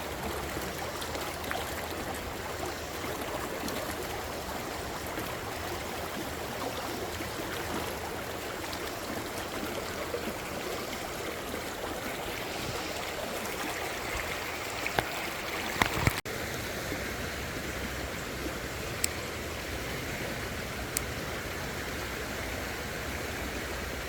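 Creek water running steadily over rocks, an even rushing, with a few short clicks and knocks about two thirds of the way through.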